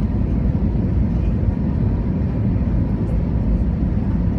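Airbus A320 cabin noise on the approach to landing: a steady low rumble of engines and airflow with a faint steady whine above it.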